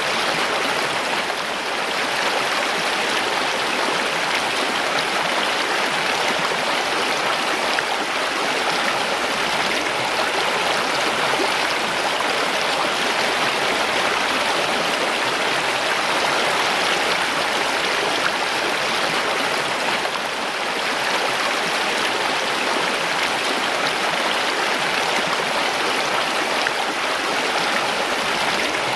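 Mountain stream: water rushing and splashing over rocks in a steady, even flow.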